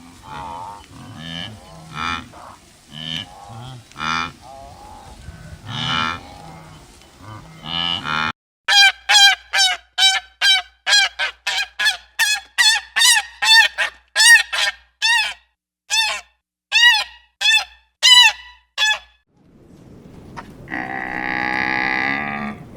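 Animal calls in three parts. First comes a stretch of overlapping low calls. About eight seconds in, a run of some twenty short honking calls starts, roughly two a second, and stops abruptly. After a short pause, one long low call follows near the end.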